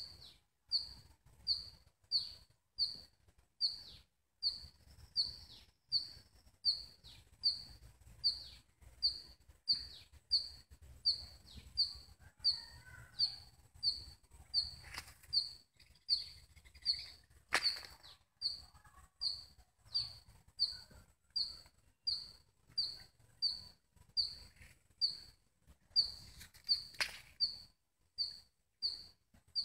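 A bird chirping over and over in a steady rhythm, a short high note about three times every two seconds. Two brief louder noises break in, one a little past the middle and one near the end.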